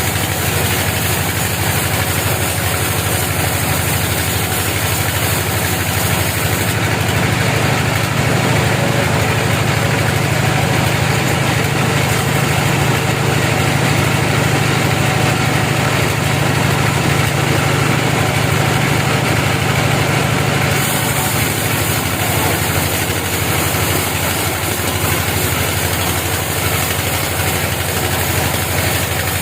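Sawmill machinery's engine running steadily at a constant speed, with a deeper, heavier hum through the middle stretch.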